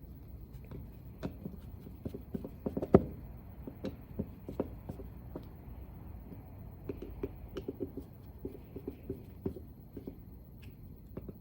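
Small screwdriver clicks and taps on a snowmobile fuel pump's cover screws being run down by hand in a crisscross pattern, with a sharper knock about three seconds in.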